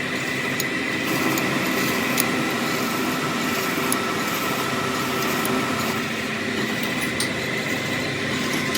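Steady machine or engine running noise with a constant high whine, and a few faint light clicks.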